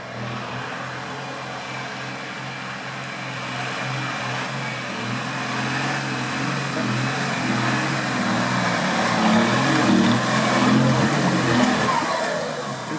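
Engine of an off-road competition vehicle running under load, growing louder in the second half as it works harder.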